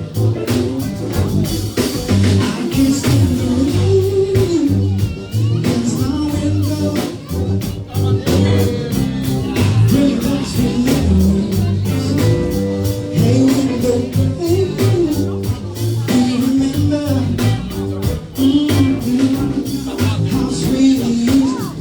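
A band playing a soul-rock cover song, with a lead singer over bass, guitar and a steady drum beat.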